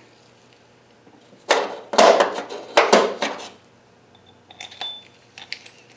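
Metal hand tools clattering and clanking as they are handled and set down, a loud run of knocks in the middle followed by a few lighter clinks with a brief metallic ring near the end.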